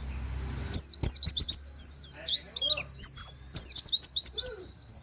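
Pleci (white-eye) singing a fast, busy run of high chirps, mostly quick downward-sweeping 'wit wit' notes in the canary-like style that bird keepers use as a tutoring song. It starts about a second in, after a brief hiss.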